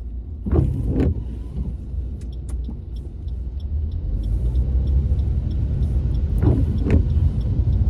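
Steady low rumble inside a car's cabin while it waits with the engine running. Two pairs of brief sweeping strokes come about six seconds apart, like windscreen wipers on an intermittent setting in the rain.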